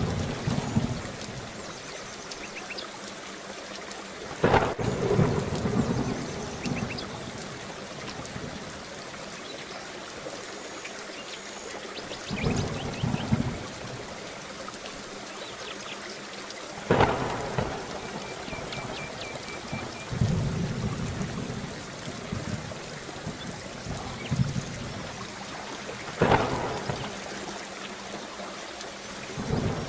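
Steady rain with thunder: three sharp thunderclaps, about four seconds in, midway and near the end, each fading out slowly, with lower rolling rumbles between them.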